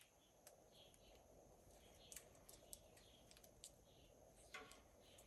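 Near silence: faint background with scattered small clicks from handling wires and parts, and faint bird chirps.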